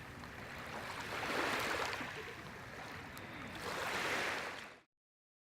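Ocean surf washing onto a beach, rising and falling in two slow swells, then cutting off abruptly shortly before the end.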